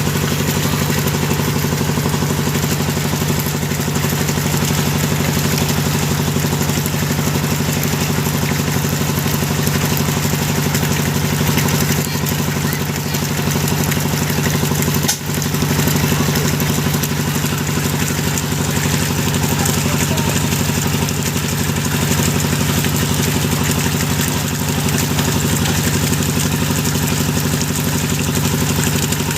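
Engine of a hydraulic deep-well drilling machine running steadily, with a brief dip in level about halfway through.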